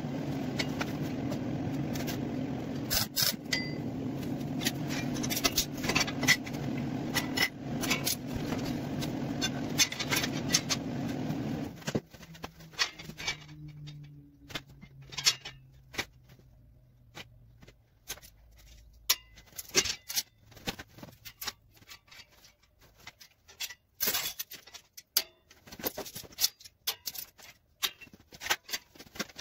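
A handheld power tool running steadily against metal with a rasping crackle. It is switched off about twelve seconds in and winds down over a few seconds, falling in pitch. Scattered clinks and knocks of metal pieces being handled follow.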